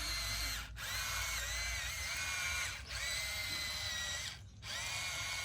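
Small electric motor of a radio-controlled construction toy whining steadily. It stops briefly three times and starts again, and its pitch dips now and then.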